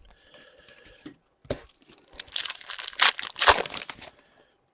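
Card pack wrapper crinkling and tearing as it is handled. The loudest crackling comes about three seconds in, after a faint rustle and a single click.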